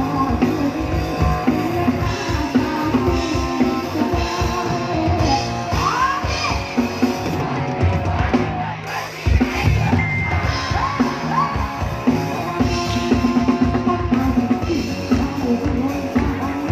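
Live band music with a drum kit keeping a steady beat, bass and guitar, and a singer's voice over it. The drums drop out briefly about halfway through, then come back in.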